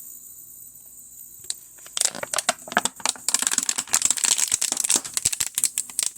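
Plastic water bottle crackling and crinkling as vacuum collapses it, a rapid run of sharp crackles that starts about two seconds in. A faint steady high hiss from the running pump lies underneath.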